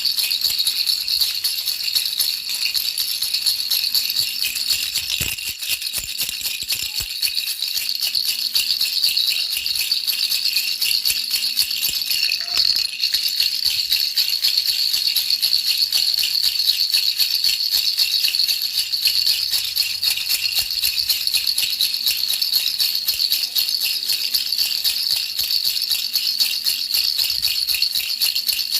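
Baby rattle shaken steadily, an unbroken fast, even rattling of small beads with no pauses.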